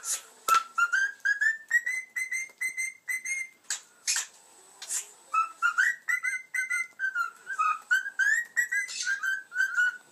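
Cockatiel whistling a tune: a fast run of short, mostly rising whistled notes, broken by a few sharp, harsh chirps.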